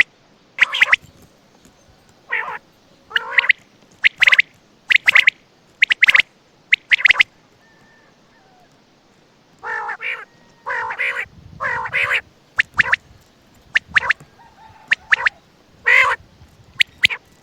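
Common quail calling: short, sharp call notes repeated one to two a second, a pause of about two seconds around the middle, then a run of longer, harsher calls before the short notes return.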